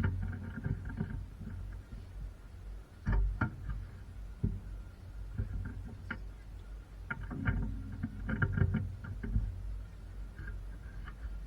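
Irregular knocks and clicks, in a few clusters, over a steady low hum.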